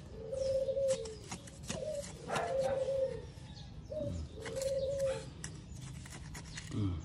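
A bird cooing over and over, a long even call about every two seconds, each led by a short note. Under it, a hand trowel scrapes and chops into garden soil.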